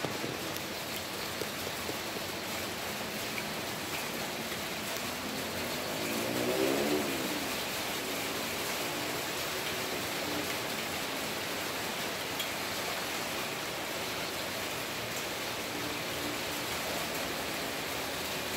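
Steady rain falling, an even hiss throughout. About six seconds in, a brief pitched drone with several tones rises and falls, standing out above the rain.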